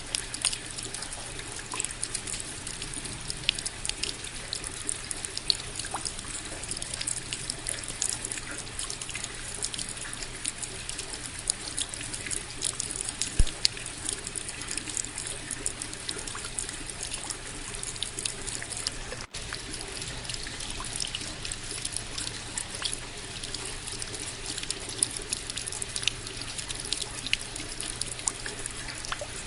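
Steady rain with trickling, dripping runoff water and many small drop ticks. It cuts out for an instant about two-thirds of the way through.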